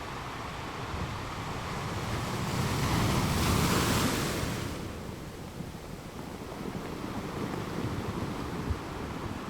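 Ocean surf: a wave swells and breaks about three to four seconds in, then washes out, over a steady rush of water.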